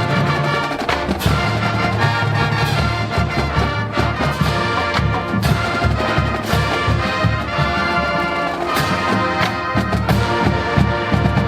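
College marching band playing: massed brass, trombones and trumpets, sounding chords over a steady run of drum strikes.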